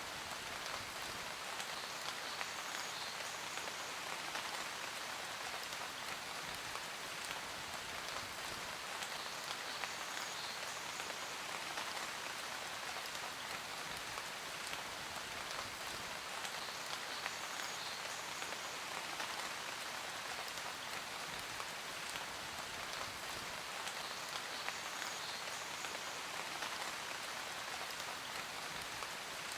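Steady rain falling on a surface: an even hiss scattered with fine drop ticks, unchanging throughout.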